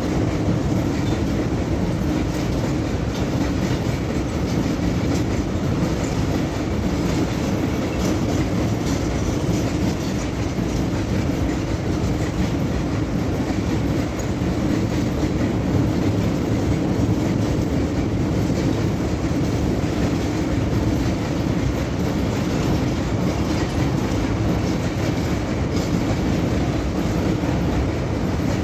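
Freight train of oil tank cars and grain hopper cars rolling over a railway bridge, the wheels clattering steadily over the rail joints.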